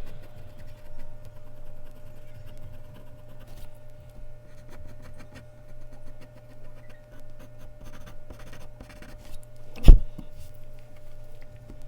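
Mechanical pencil scratching on Bristol paper in many short strokes, with one loud knock about ten seconds in. A steady low hum runs underneath.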